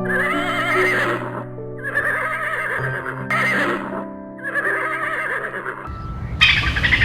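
A horse whinnying, several quavering calls one after another, over background music with held notes.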